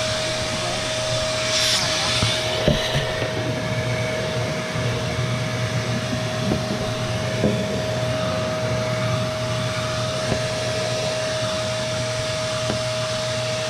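Vacuum cleaner running steadily with a constant whine, sucking dust out of an RV air conditioner, with a few short knocks along the way.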